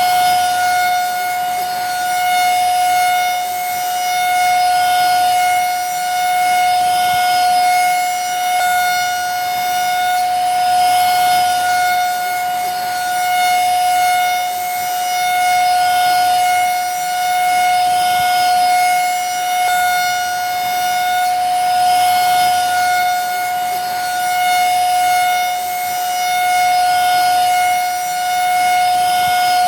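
Vacuum cleaner motor running steadily: a constant high whine over a rush of air that swells and eases about every two seconds.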